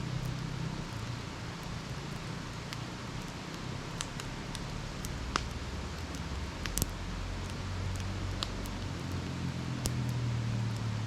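Wood campfire crackling, with scattered sharp pops, the loudest about five and seven seconds in, over a steady low hum in the background.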